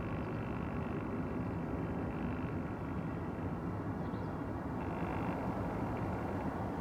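Steady rumble of jet aircraft engines, with a faint high whine that comes and goes.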